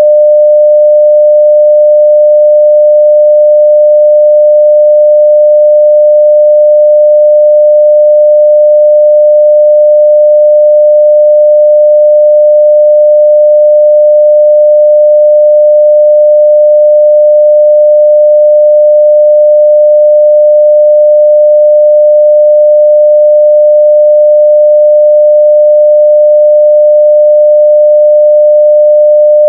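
A pure 600 Hz sine-wave test tone at full level, held steady and unbroken.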